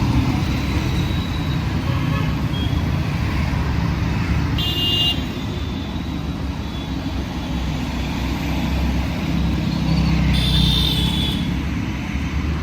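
Busy street traffic: a steady low rumble of passing engines, with two short horn toots, one about five seconds in and a slightly longer one about ten seconds in.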